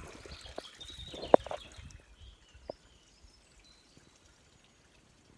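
Small birds chirping outdoors, with a sharp click about a second and a half in and another fainter one later.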